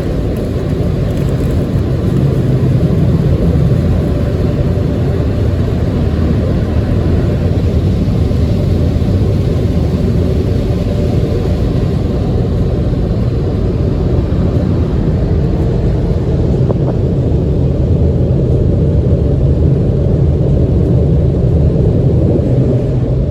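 Tunnel car wash dryer blowers running, heard from inside the car's cabin as a loud, steady low rumble of blasting air.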